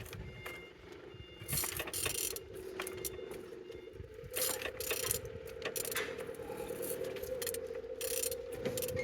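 Used engine's crankshaft being turned over by hand with a ratchet, which clicks in bursts over a steady hum; the engine turns freely.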